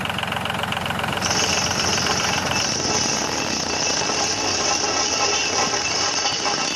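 Small motor of a homemade mini tractor running steadily with a fast, even rattle. A high-pitched whine sets in about a second in and holds.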